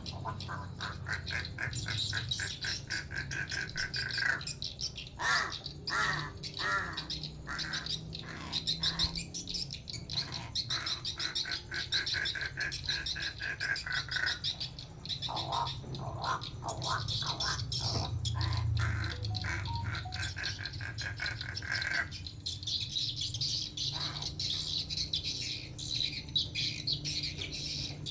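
Pet crow calling in long runs of rapidly repeated squawks, with a few pauses between runs.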